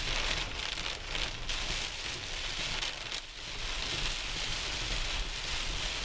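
Heavy rain falling on a car's windshield and roof, heard from inside the vehicle as a steady hiss that dips slightly now and then.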